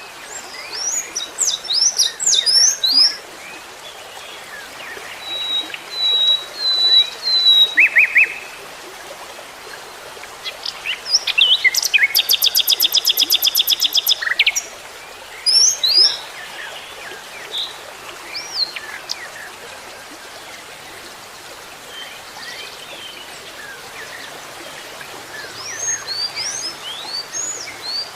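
Small birds chirping and calling in short, high, sliding notes, with one fast, evenly repeated trill lasting about three seconds near the middle, over a steady background hiss.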